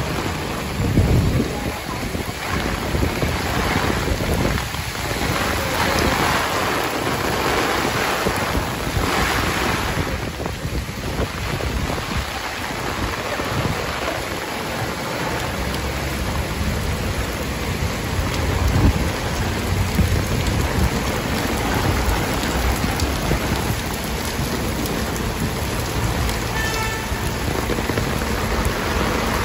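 Heavy typhoon rain pouring steadily, with gusts of wind rumbling irregularly against the microphone.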